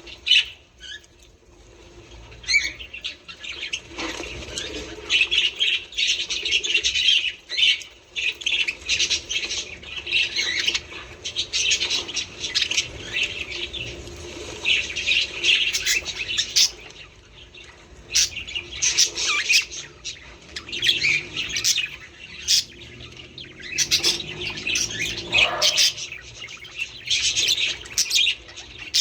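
A group of budgerigars chattering: a dense, busy run of warbling chirps and squawks with hardly a pause.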